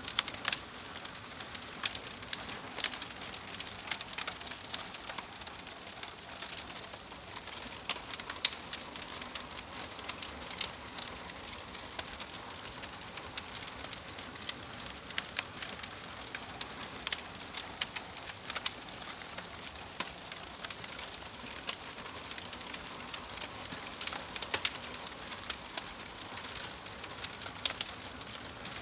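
Fire crackling: a steady soft hiss with irregular sharp pops and snaps.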